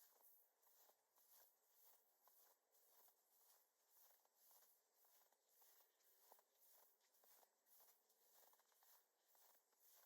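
Very faint footsteps crunching in snow at a steady walking pace, about two steps a second.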